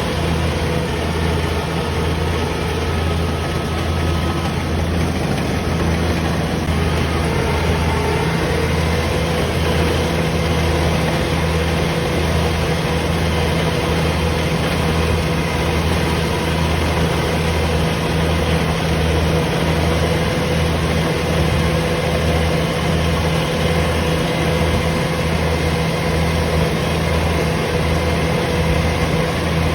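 Engine of a rice combine harvester running steadily at constant speed: a low drone with a faint steady whine above it.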